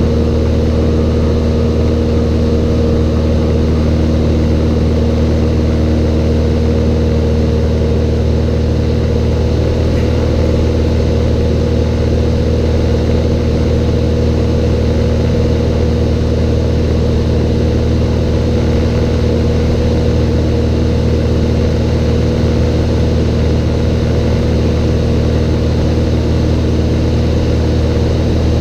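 Cessna 182's piston engine and propeller droning steadily at a constant power setting, a loud low hum with no change in pitch.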